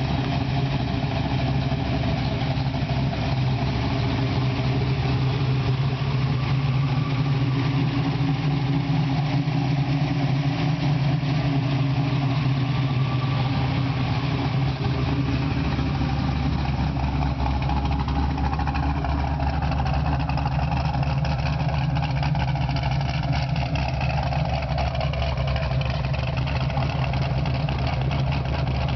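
Ford Mustang's 418 cubic-inch Windsor stroker V8 idling steadily through a Borla exhaust.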